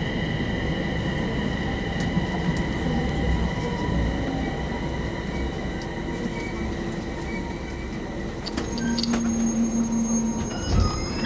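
Electric commuter train rolling slowly along a station platform and braking to a stop, its running rumble carrying a steady high squeal that fades out over the first half. A few clicks and a short low hum come near the end as it halts.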